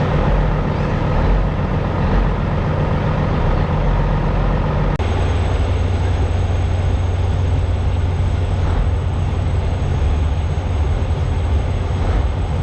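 Diesel semi truck engines running steadily with a deep hum. The sound changes abruptly about five seconds in.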